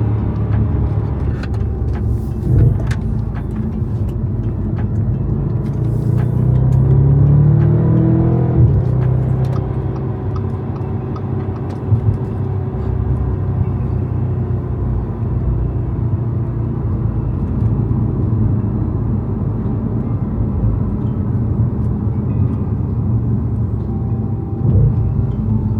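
2013 Audi RS5's 4.2-litre V8 running while the car is driven. About six seconds in, the engine note rises under acceleration, then drops suddenly at about eight and a half seconds, as at a gear change; after that it settles to a steady cruise.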